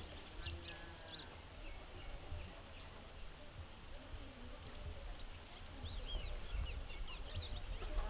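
Wild birds chirping: a few short, high chirps near the start, then a busier run of quick, falling chirps in the second half, over a low steady rumble.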